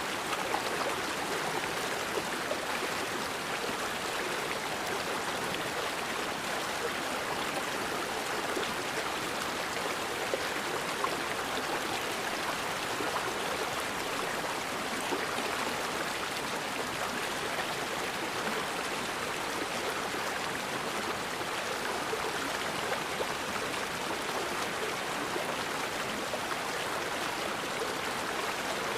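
River water flowing over rocks, a steady, even rush of water with no change throughout.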